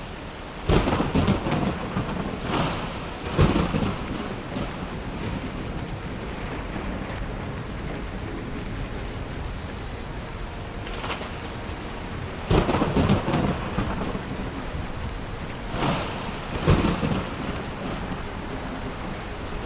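Steady heavy rain with several loud claps and rumbles of thunder, coming in three bunches: one in the first few seconds, one about two-thirds through and one shortly after.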